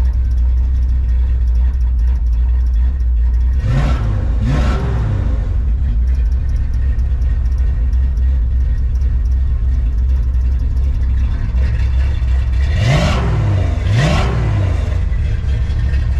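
Old Dodge D100 pickup's carbureted engine idling, blipped twice in quick succession about four seconds in and twice again near the end. The owner thinks it may still be running a little rich, with carbon build-up and possibly fouled plugs.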